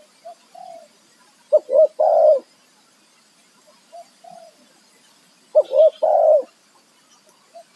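Spotted dove cooing: two loud phrases about four seconds apart, each two short notes then a longer, drawn-out coo, with softer notes in between.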